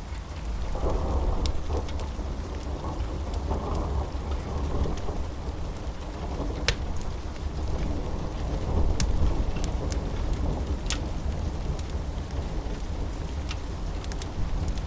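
Thunderstorm: steady rain with a deep rolling rumble of thunder that swells about a second in and slowly dies away, over scattered sharp crackles.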